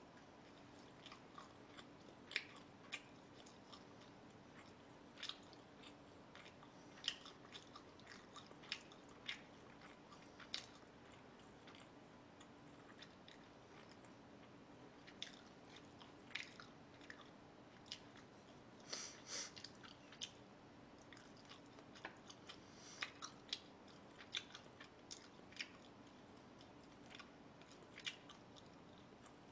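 A person chewing and biting food: faint, irregular mouth clicks and small crunches, over a steady low hum.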